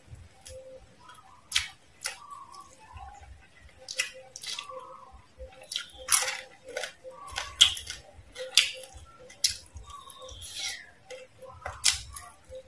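Close-miked chewing of crispy fried frog: sharp crunches roughly every second, some loud and some soft, with wet mouth sounds between them.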